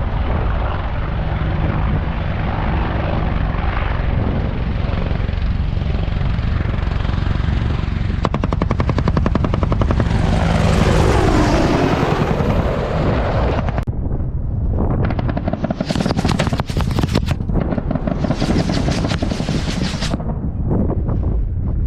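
AH-64 Apache attack helicopter flying near, its rotor beating steadily, sweeping past close about ten to thirteen seconds in. Later comes a long series of rapid sharp cracks in two bursts.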